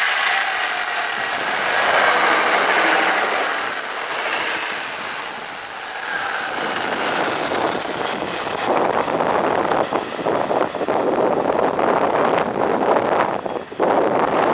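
NJ Transit Arrow III electric multiple-unit train passing at speed, a steady rush of wheels on rail with a thin high whine for several seconds. After the rear car goes by, about eight seconds in, the sound turns choppy as the wind of its wake buffets the microphone.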